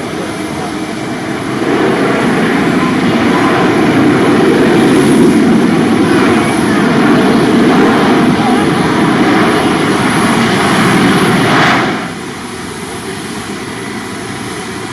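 Jet airliner engine noise: a loud, steady rush that swells about one and a half seconds in and cuts off suddenly near the end.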